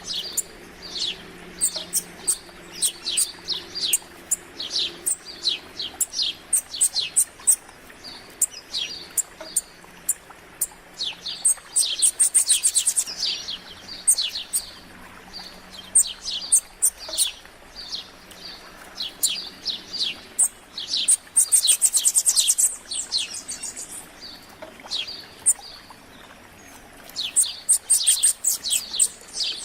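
Several small songbirds chirping and singing: a steady run of short, high, falling chirps, with a fast, very high trill breaking in three times, about twelve seconds in, after about twenty-one seconds and near the end.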